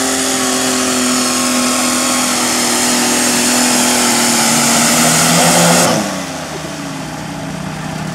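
Turbo diesel engine of a Pro Stock Cub Cadet pulling garden tractor running at full throttle under load, its pitch slowly sagging as it pulls, then dropping off sharply about six seconds in as the throttle comes back.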